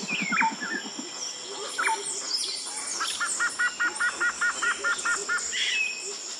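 Birds chirping and calling: scattered short chirps and downward-sliding whistles, with a quick run of about a dozen repeated notes starting about three seconds in.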